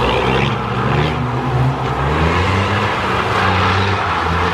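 A car engine running close by, its pitch shifting up and down a few times as the throttle changes.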